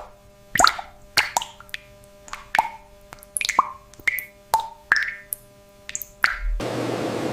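A quick, uneven series of wet plops and drips, about two a second, each a sharp click followed by a short pitched blip. Near the end a steady rushing noise like running water takes over.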